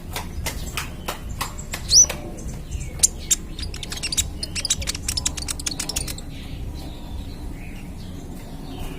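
A young Van Hasselt's sunbird (kolibri ninja) singing rapid, sharp, high chips and ticks. It gives one rising whistled note about two seconds in and a dense fast run of notes in the middle, which thins out near the end. A steady low hum runs underneath.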